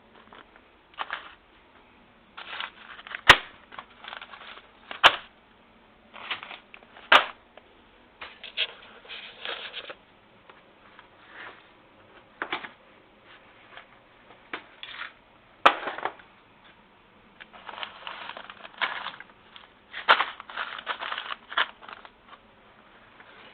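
Irregular clattering and rustling with a few sharp knocks or clicks, about four of them louder than the rest, as of things being handled and set down.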